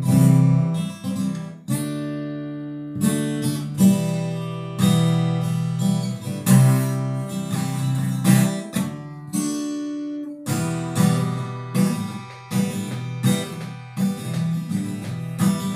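Acoustic guitar strumming chords as the introduction to a song, with a short lull about ten seconds in before the strumming picks up again.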